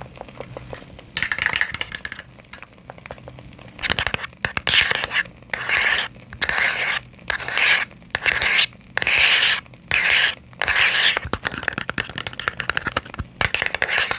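Fingernails scratching over the surface of a small box in short, repeated strokes: one stroke about a second in, then a quick run of strokes from about four seconds in.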